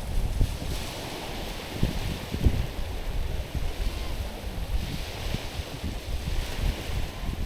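Small waves washing and lapping over stones on a rocky shore, the hiss of the water rising and falling in slow swells. Wind buffets the microphone in uneven low rumbles.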